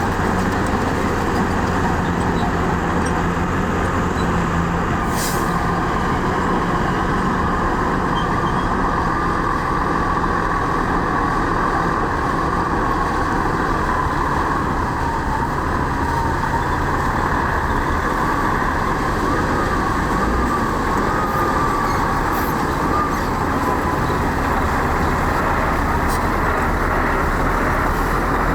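Diesel engines of heavy earthmoving machinery running steadily under load, with a thin wavering whine through the middle.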